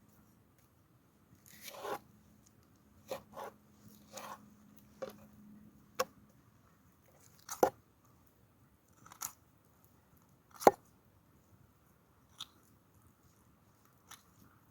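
Food being handled and cut during cooking prep: about ten irregularly spaced short crunches and sharp taps, with the loudest knock about two-thirds of the way in.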